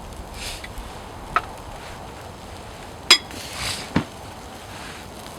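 Chopsticks and tableware knocking and clinking during a meal: three sharp clicks, the loudest about three seconds in, with brief soft rustling between.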